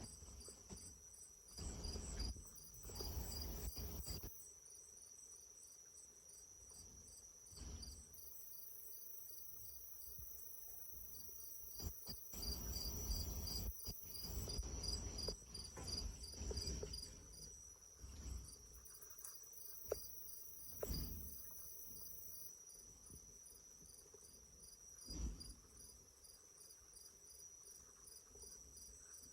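Crickets chirping, a steady high-pitched trilling with rapid, even pulses. Now and then a louder low rush of noise comes and goes.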